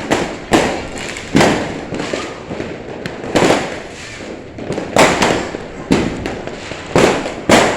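Fireworks bursting overhead: a string of loud, echoing bangs about one every second, each fading out before the next.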